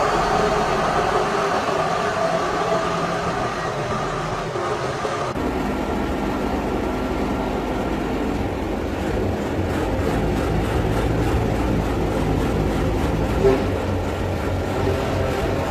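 Heavy truck engine running steadily. The sound changes abruptly a little over five seconds in, becoming deeper and heavier.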